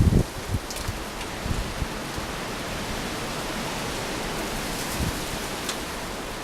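Steady rain falling and hitting surfaces in a windy winter storm. There is low buffeting on the microphone at the very start and again about five seconds in.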